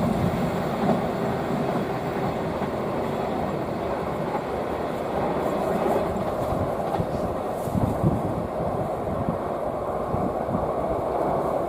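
Passenger train passing at speed: a steady rumble and clatter of the carriages on the rails, with a few wheel knocks.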